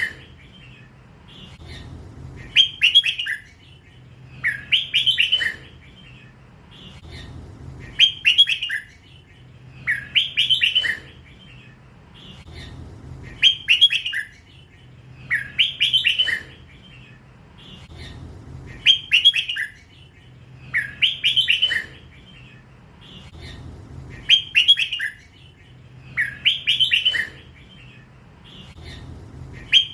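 Young crossbred red-whiskered bulbul, still in its first plumage, singing the same short warbled phrase over and over, about once every two and a half to three seconds. This is the song style Thai bulbul keepers call "lak wai".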